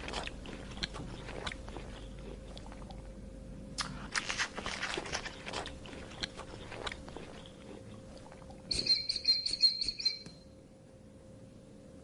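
An animal chewing and crunching food in quick crisp bites, in two spells. About nine seconds in comes a louder, high, rapidly pulsed chirping call lasting about a second and a half.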